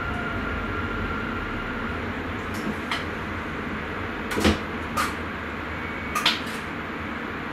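Steady running noise inside the cab of a Sprinter commuter train, with a handful of short sharp knocks and clicks in the middle, the loudest about halfway through.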